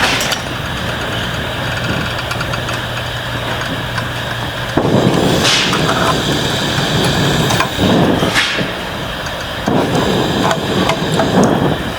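Steady roar of a blacksmith's forge burner, with louder surges about 5 s, 8 s and 10 s in.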